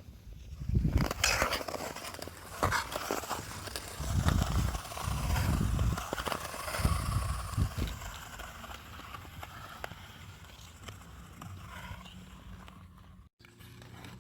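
Ice skate blades scraping and gliding over smooth lake ice, with scattered clicks. Several low rumbles come and go in the first half and are the loudest part.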